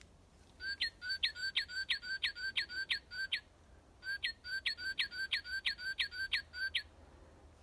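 Northern cardinal singing: two runs of quick, clear whistles, each sliding down in pitch, about four a second, with a short pause between the runs.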